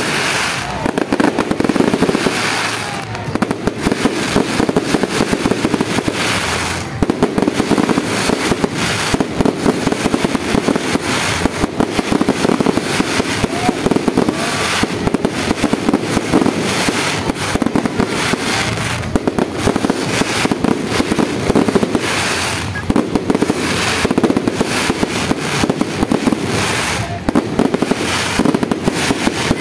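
Fireworks display: a dense, continuous barrage of bangs and crackling, with no pauses.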